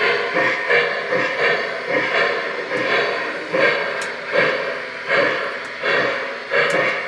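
Model steam locomotive's sound decoder chuffing steadily as the train moves off, about one and a half chuffs a second.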